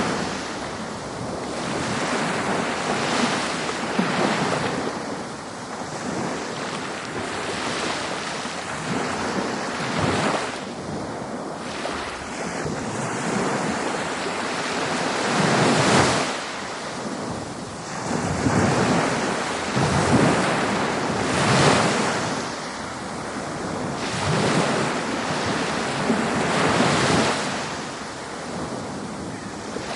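Ocean waves breaking on a beach: continuous surf with swells that rise and fall every few seconds, and louder breakers around a third, two thirds and three quarters of the way through.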